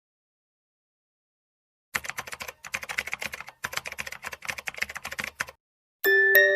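Silence, then a sound effect of rapid small clicks in three quick runs, like fast typing on a keyboard. Near the end a bright bell-like mallet melody begins.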